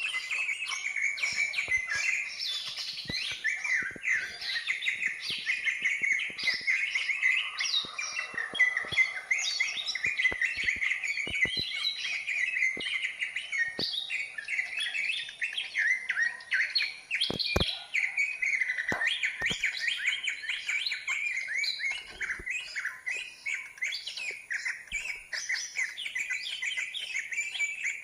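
Bird song: a dense, unbroken run of fast chirps, trills and twitters, with a few faint clicks or taps beneath it.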